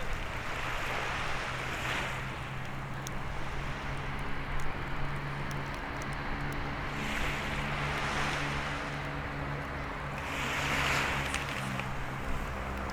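Waves washing on the shore in three swells, over a steady low engine hum, with scattered small crackles from the bonfire.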